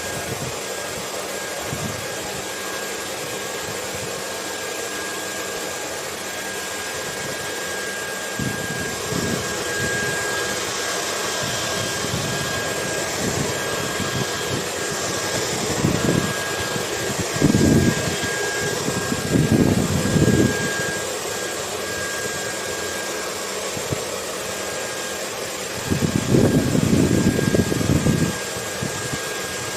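Hair dryer blowing steadily, an even hiss with a thin constant whine, mixed with wind that swells in low rumbling gusts several times, longest near the end.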